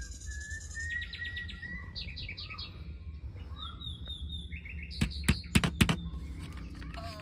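Birds chirping in short whistled phrases, with a few sharp knocks about five to six seconds in.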